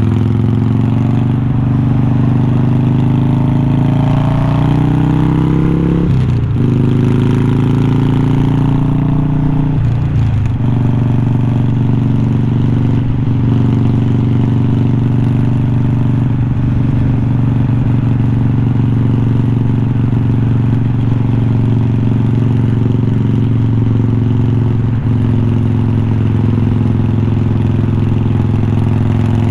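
Exhaust of a 2020 Harley-Davidson Iron 1200's air-cooled V-twin through unbranded glass-pack-style slip-on mufflers. It pulls up through the gears, with short breaks for shifts about six and ten seconds in, then settles to a steady cruise.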